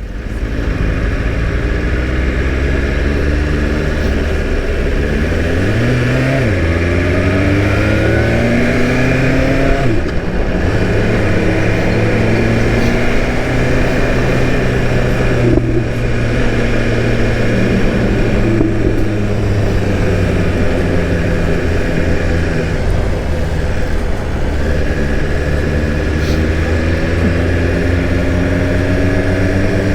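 BMW S1000RR inline-four engine running under way, its pitch climbing and dropping several times with the throttle and gear changes, over steady wind and road noise. Near the end it pulls up in a long rising rev.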